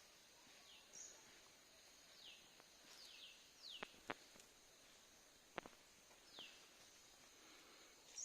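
Faint bird calls: short chirps, each sliding down in pitch, repeated several times, over a steady high insect-like hiss. A few sharp clicks come around the middle.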